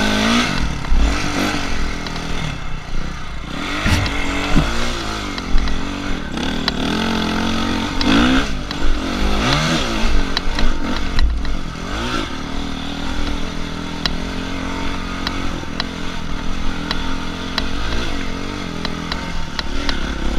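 Dirt bike engine revving up and falling off again and again as it rides, with scattered clicks and clattering knocks.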